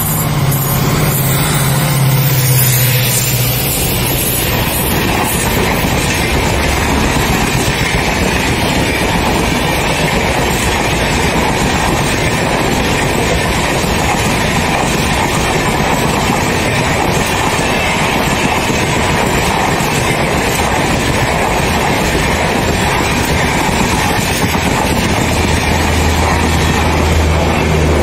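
A passenger train running through at speed: the EMD diesel locomotive's engine drone for the first few seconds as it passes, then the steady rushing rumble of the coaches' wheels on the rails as the long rake goes by.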